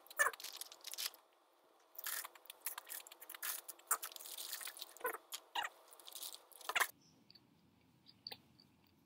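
Close-up crunching and chewing of McDonald's Criss Cut fries: a burst of crisp crunches, a short pause about a second in, then a dense run of crunches that stops about seven seconds in, leaving faint soft chewing.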